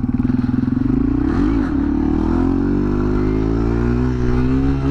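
Dual-sport motorcycle engine with its stock exhaust, running under way: the revs dip and pick back up about a second and a half in, then it pulls steadily with the revs slowly rising.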